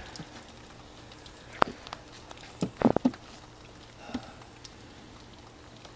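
A few knocks and clunks from a window air conditioner being handled and moved: a sharp one about one and a half seconds in, a louder cluster near three seconds and a small one a second later, over a faint steady hum.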